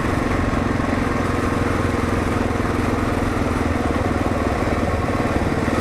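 Kawasaki KLR 650's single-cylinder four-stroke engine running steadily as the motorcycle is ridden at an even pace.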